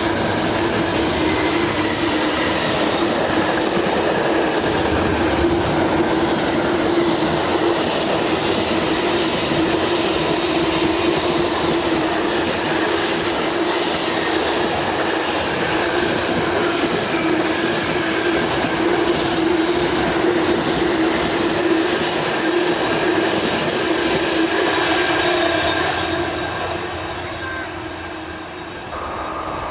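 A train passing at close range: a sustained rumble of wheels on rail with a steady hum, dying away near the end.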